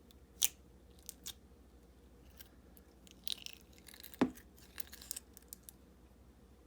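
Fishbowl slime being squished and stretched by hand, giving scattered clicks and crackles, with louder pops about half a second in and just after four seconds.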